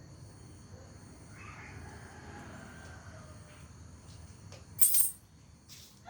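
Javan myna calling: a drawn-out falling call in the first half, then a loud, harsh squawk about five seconds in and a shorter one after it. Steady high cricket chirring runs underneath.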